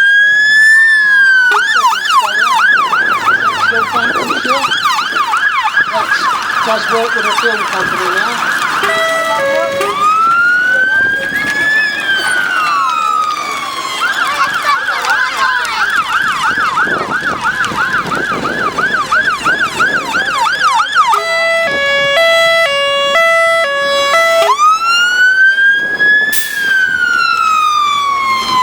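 Electronic siren on a fire appliance, cycling through its tones: a slow rising-and-falling wail, then a fast yelp, a wail again, another yelp, and about three seconds of a two-note high-low, before going back to the wail near the end.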